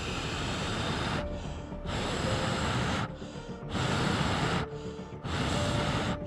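A person blowing hard on smouldering tinder to fan the flames, four long puffs of air about a second each with short pauses between.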